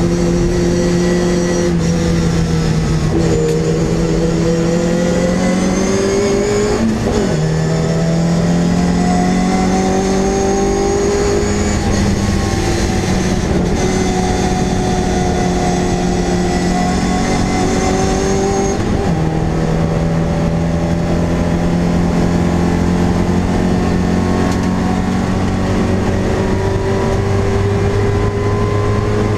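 MG Midget race car's four-cylinder engine heard loud from inside the cockpit, pulling hard with its pitch climbing steadily and dropping sharply at upshifts about 7 and 19 seconds in, over road and wind noise.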